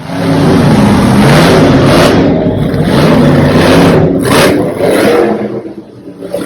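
Monster truck engine revving hard and loud, its pitch rising and falling, easing off near the end.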